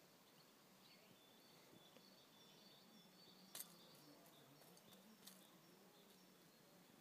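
Near silence with faint, short, high bird chirps here and there, and two soft clicks about three and a half and five seconds in.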